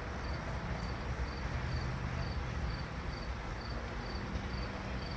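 A cricket chirping steadily, short high chirps about twice a second, over a low steady background hum.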